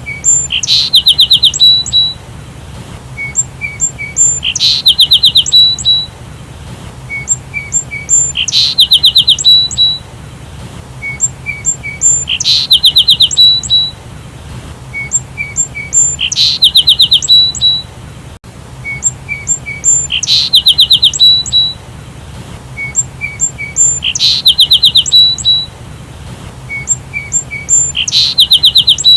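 Sparrow calling: a few short chirps, then a fast trill of about ten notes. The same phrase repeats about every four seconds.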